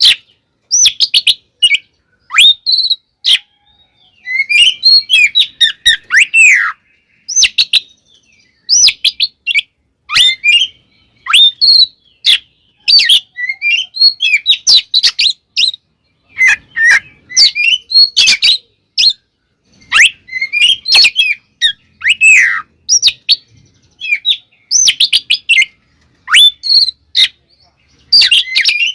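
Oriental magpie-robin singing hard: a loud, varied song of rapid whistled sweeps and sharp clicking notes in short bursts with brief pauses between phrases. It is the aggressive fighting song that keepers play to rile other magpie-robins.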